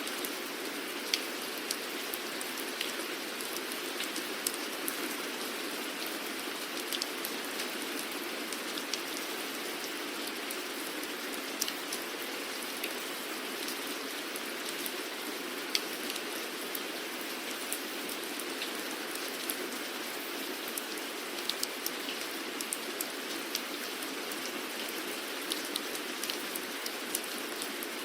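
Steady rain falling on a surface, an even hiss with individual drops ticking sharply here and there.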